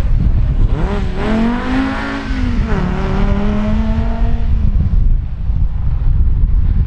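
Rally car engine accelerating, its pitch rising about a second in, dropping sharply near three seconds in, then holding steady before fading out halfway through. A deep rumble runs underneath.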